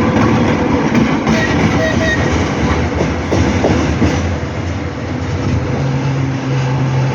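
Shunting diesel locomotive passing close by, its engine running with a steady hum. A few sharp clanks from the wheels on the rails come in the first half.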